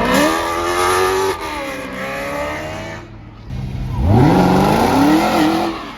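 Car engine accelerating hard at full throttle, its pitch climbing, then easing off about a second and a half in. A second hard pull begins about four seconds in, its pitch rising steeply.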